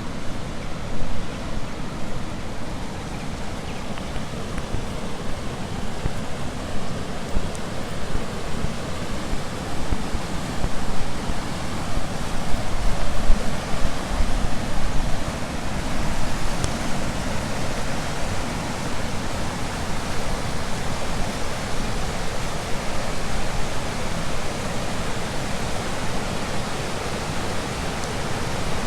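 Steady rushing of fast-flowing river water, a continuous even noise that swells slightly about halfway through.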